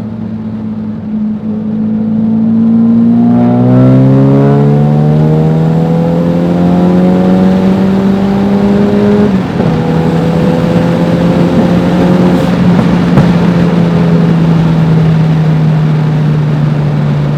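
Tuned Ford Focus RS's turbocharged 2.3-litre four-cylinder engine pulling hard under full throttle. Its note climbs steadily for several seconds, drops suddenly at an upshift about nine seconds in, climbs again more slowly, and then holds nearly steady near the end.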